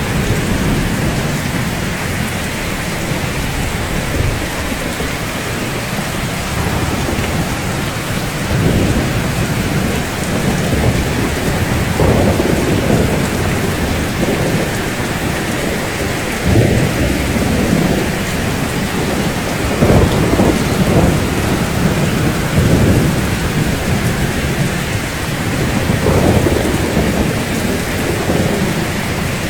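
Steady rain falling, with low rolling rumbles of thunder that swell up several times, most strongly around the middle and again near the end.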